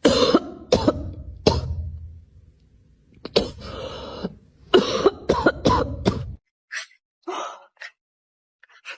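A series of short, loud coughs in quick bursts, cutting off abruptly about six and a half seconds in, followed by a few faint short sounds.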